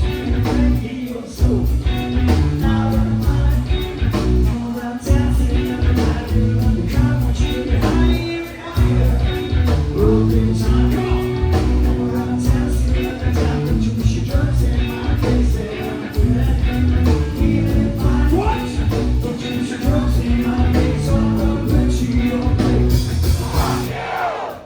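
Live rock band playing a loud song with electric guitars, bass and drums, and a sung lead vocal over them.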